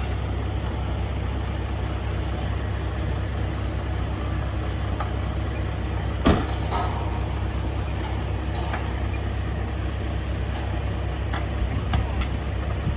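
Heavy diesel earthmoving machine engine running steadily, with one sharp metallic knock about halfway through and a couple of lighter knocks near the end.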